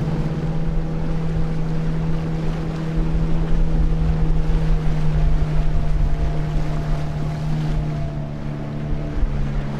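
Motorboat engine running at a steady pitch, with wind buffeting the microphone; the low rumble swells in the middle.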